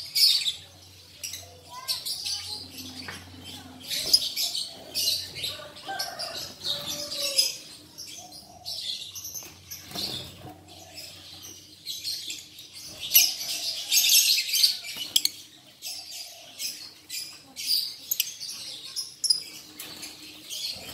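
A colony of lovebirds kept together in one cage, chattering: dense, overlapping shrill chirps and clicking calls with a few lower squawks, never pausing for long.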